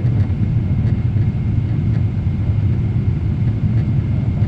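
Steady low rumble of a Boeing 777-300ER's GE90 engines and airflow heard inside the passenger cabin during the approach, with a faint thin whine above it.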